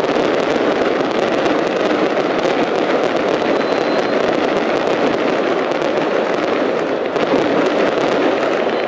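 Aerial fireworks going off in a dense, continuous barrage: overlapping bursts with many sharp crackles throughout.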